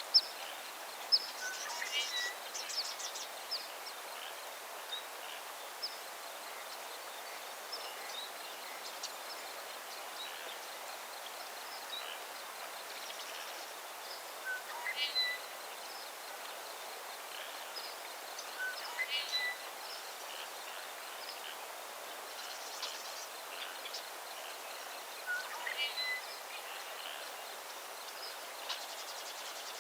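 Outdoor birdsong over a steady background hiss: one bird repeats the same short song phrase four times, spaced several seconds apart, among scattered brief high chirps from other birds.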